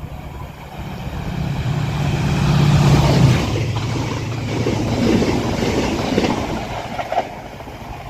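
Class 68 diesel-electric locomotive hauling Mark 5A coaches through the station at speed. Its engine note builds to a peak about three seconds in and drops in pitch as it goes by, followed by the rush and wheel clatter of the passing coaches.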